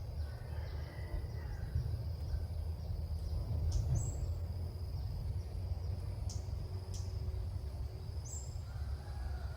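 Faint bird chirps and calls over a steady high insect-like drone, with a constant low rumble of wind or handling noise on the microphone. A few short high chirps come about four seconds in, near eight seconds in and at the end.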